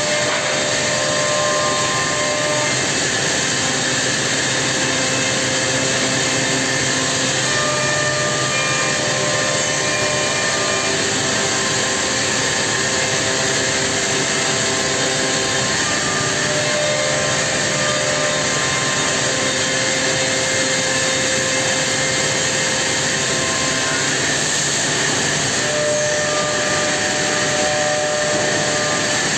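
Homag five-axis CNC machining centre running: a steady, loud mechanical noise with thin whining tones that come and go and shift in pitch.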